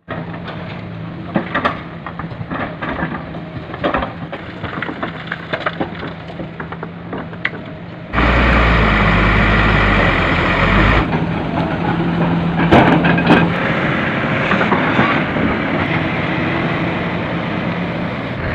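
Hino 500 FM 260 JD dump truck's diesel engine running steadily, with scattered sharp cracks and knocks. About eight seconds in, a much louder rushing noise with a deep rumble cuts in for about three seconds, then the engine carries on with more knocks.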